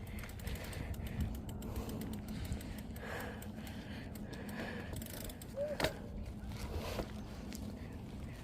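Bicycle coasting: the freewheel's pawls ticking rapidly, over steady tyre and wind rumble, with a sharp click a little before the six-second mark.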